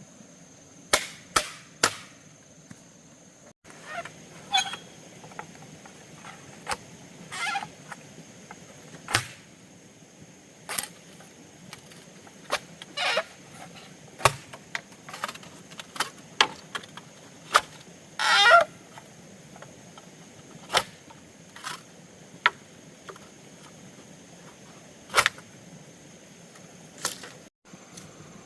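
Irregular sharp knocks of a blade chopping bamboo, mixed with a few longer cracking or scraping sounds; the longest and loudest comes about two-thirds of the way through.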